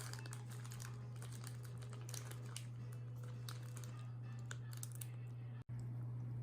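Chopsticks and spoons lightly clicking and tapping against dishes during a meal, in quick irregular clicks over a steady low hum. The sound drops out for an instant about three quarters of the way through.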